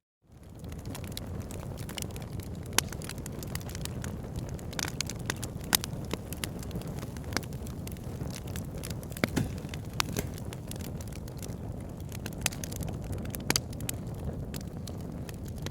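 Campfire burning: a steady low rumble with frequent sharp, irregular crackles and pops of burning wood. It fades in from a brief silence at the very start.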